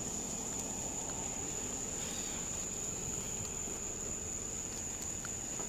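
Steady, unbroken high-pitched trilling of insects such as crickets, over a low background rumble.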